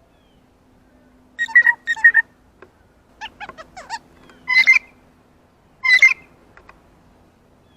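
Monkey-style hooting and screeching calls, the "monkey noises" given to a blue jay. First a pair of calls, then a quick run of short sliding hoots, then two loud shrieks near the end. A faint steady hum runs underneath.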